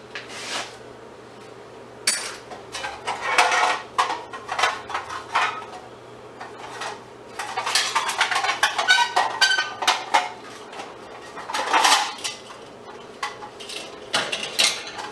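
Scrap metal parts being handled and sorted by hand, clinking and rattling together in irregular bursts, over a faint low steady hum.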